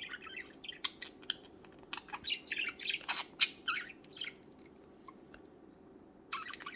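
Budgerigars chirping and squawking in quick, short calls. The calls pause for a second or two and start again near the end.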